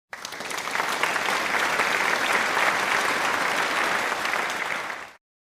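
Applause: a dense, steady patter of many hands clapping that fades out about five seconds in.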